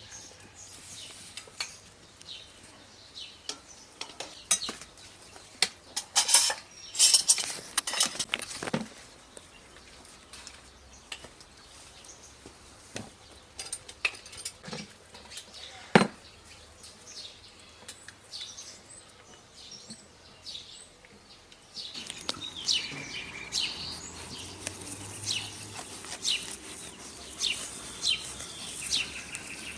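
Cutlery clinking and scraping against dishes in scattered sharp clicks, busiest a quarter of the way in, with one loud clink about halfway. Birds chirp through the last part.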